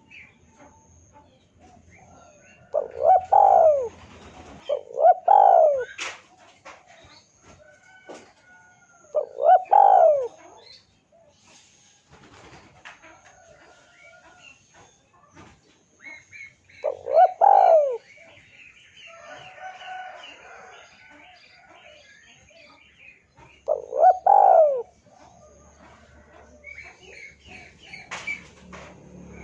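Spotted dove (tekukur) cooing its rolling song, about five phrases of roughly a second each spaced several seconds apart, with small birds chirping faintly in the background.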